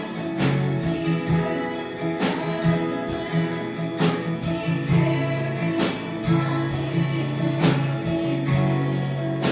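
Live gospel worship music: a steady strummed guitar beat with held chords and voices singing.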